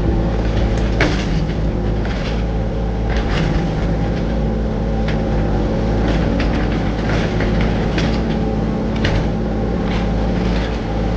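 Hitachi 035-class mini excavator's diesel engine running steadily, with short sharp knocks about once a second or so.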